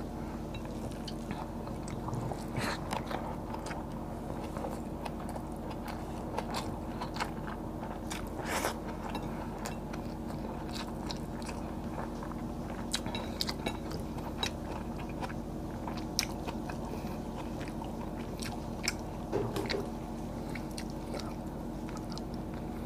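Close-miked chewing and biting of fried tilapia and rice eaten by hand, with scattered crunches and wet mouth clicks over a steady low hum.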